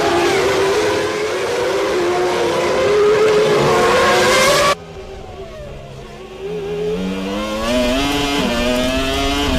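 1998 Formula One cars' 3-litre V10 engines at high revs, loud and fairly steady in pitch. About halfway through the sound cuts abruptly to a quieter car engine that rises in pitch as it accelerates, with a brief drop like a gear change near the end.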